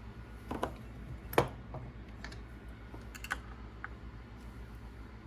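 Scattered small clicks and taps of hand tools and RC car parts being handled during disassembly, the loudest a sharp click about one and a half seconds in, over a low steady hum.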